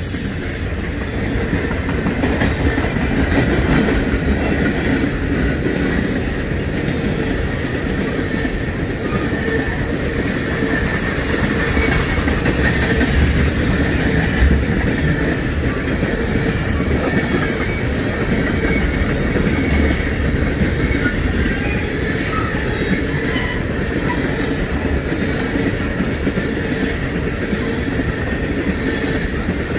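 Train rolling past on the main line: a steady, loud noise of railcar wheels on the rails, with a faint wheel squeal at times.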